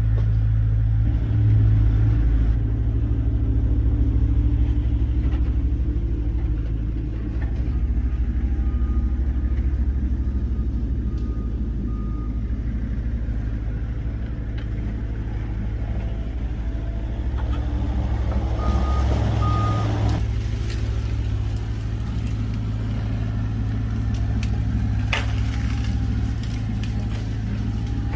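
Engine of an old GMC logging truck running, a steady low drone throughout.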